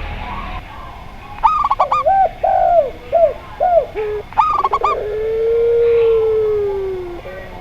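Mixed dove calls from zebra doves, spotted doves and a puter pelung dove: two quick runs of clipped high coos, a string of arching lower coos between them, then one long, level drawn-out coo lasting about two and a half seconds.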